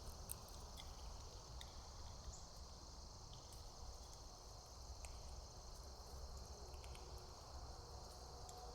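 Faint steady high-pitched chorus of insects such as crickets, over a low rumble, with a few scattered faint clicks.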